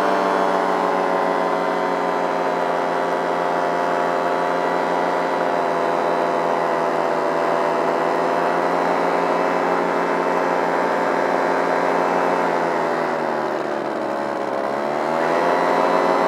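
Flat Top Super paramotor's two-stroke Simonini engine, fitted with a Nirvana Rodeo muffler and intake silencer, running at a steady throttle. About 13 seconds in it is throttled back, and the pitch drops. Near the end it is opened up again.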